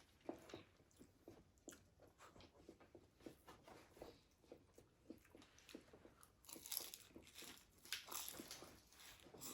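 Close-up chewing and biting of crispy fried food, a steady run of soft wet chews broken by sharper crunches, loudest about seven and eight seconds in.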